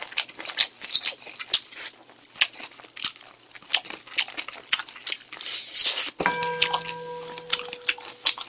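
Close-miked chewing and wet lip-smacking: a piece of sauced fried chicken being eaten and pulled apart by hand, in many quick clicky mouth sounds. A steady electronic beep comes in about six seconds in and holds for a second or two.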